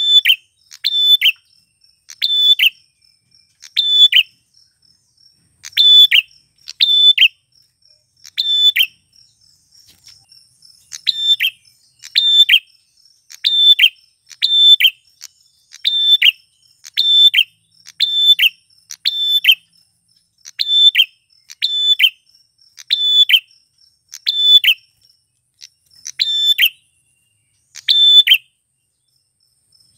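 Male prenjak (prinia) calling insistently: sharp, loud chip notes about once a second, often in quick pairs, with brief pauses about a third of the way in and near the end. A faint steady insect-like buzz runs beneath.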